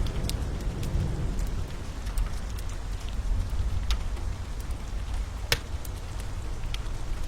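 Steady rain over a low rumble, with a fire crackling: scattered sharp pops throughout, the loudest about five and a half seconds in.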